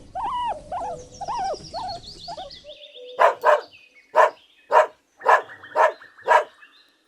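A guinea pig's repeated short squeaky calls for the first few seconds, then a dog barking: a run of sharp barks, about two a second.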